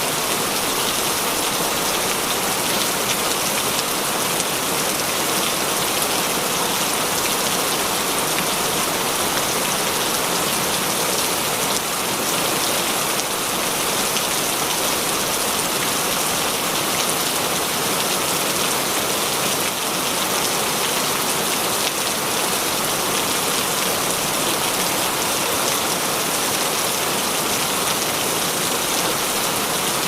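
Heavy rain falling steadily, a dense, even hiss of many drops striking a surface, with no breaks or changes.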